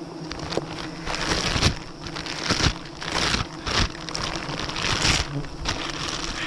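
Irregular rustling, crunching swishes, about five or six in a few seconds, over the steady hum of a swarm of wild bees.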